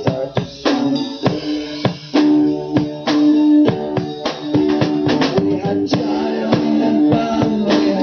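Band playing an instrumental passage between verses: electric guitar holding melodic notes over a steady drum-kit beat.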